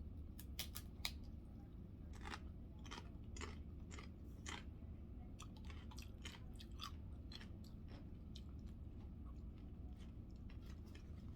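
A woman chewing a mouthful of chicken burrito bowl, faintly, with scattered wet mouth clicks.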